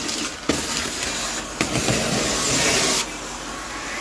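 Vacuum cleaner running with a loud, airy hiss that cuts out briefly twice and drops to a quieter level about three seconds in.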